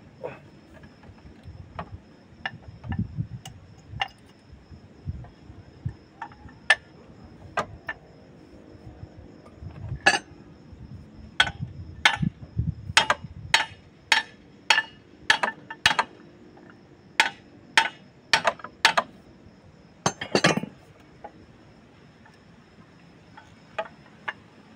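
Sharp metal clinks and taps of hand tools on metal parts during a brake-pad job: a few at first, then a quicker run of single strikes, roughly one or two a second, through the middle, with a louder double knock just after that.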